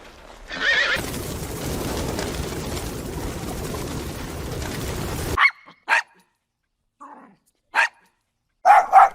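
A horse neighs: a short high call that runs into a long, rough whinny lasting about four seconds and cutting off suddenly. Then a dog gives a series of short, separate barks.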